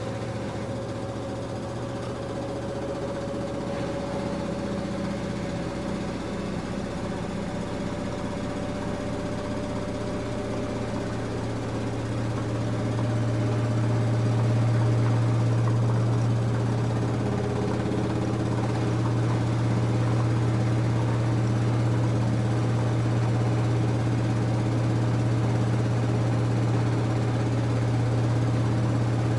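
LG F10A8HDS5 front-loading washing machine running through its cotton cycle: a steady motor hum with a faint tone above it, growing louder about halfway through and then holding steady.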